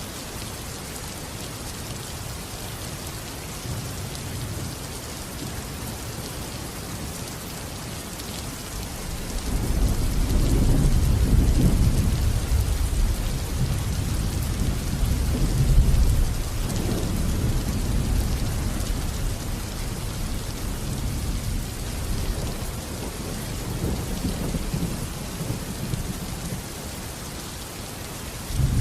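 Steady heavy rain with a long roll of thunder that swells about a third of the way in, rumbles on with several peaks, and dies away near the end; another thunderclap starts just as it ends.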